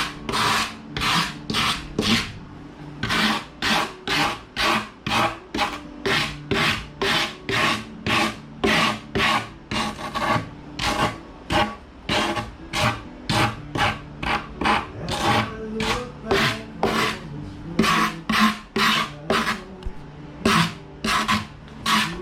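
A hand tool scraping in even, repeated strokes, about two a second, like a rasp or file being worked back and forth.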